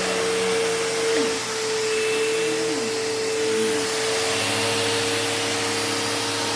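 Bissell CleanView Rewind Pet upright vacuum running steadily on carpet: a motor whine over a rush of air, with the lower hum changing about four seconds in.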